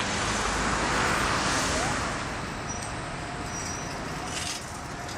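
Steady road traffic noise, fading in at the start and then holding steady.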